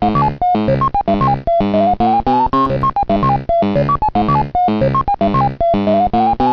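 A synthesized notification tone: a fast melody of short, bright notes with a few quick runs of rising notes.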